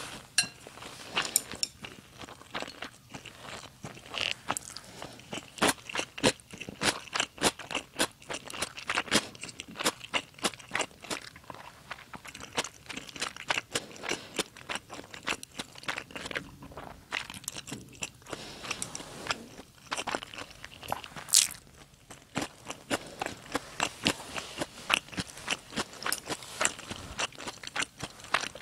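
Close-miked chewing of smoked salmon, rice and radish sprouts: wet mouth sounds with many small crisp crunches, a few each second, irregular. One sharper click stands out about two-thirds of the way in.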